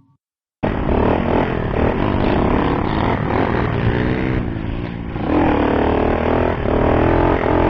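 Motorcycle engine running and revving, its pitch rising and falling repeatedly, starting abruptly about half a second in.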